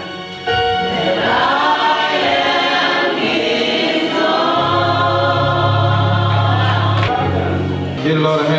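Church choir singing gospel music, with sustained low accompanying notes coming in about halfway through.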